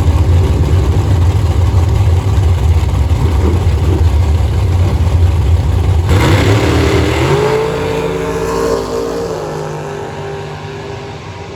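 Car engine with a heavy low rumble that revs up sharply about six seconds in, its pitch climbing, then fades as the car pulls away.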